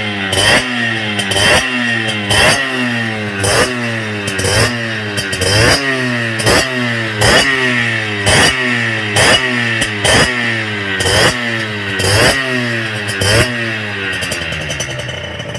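50cc two-stroke supermoto engine with a Polini expansion-chamber exhaust, revved in quick throttle blips about once a second, each falling back in pitch. It settles toward idle near the end.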